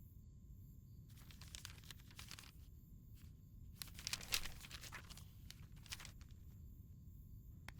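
Faint rustling and crinkling, with a louder rustle about four seconds in and a few small ticks, over a low steady hum.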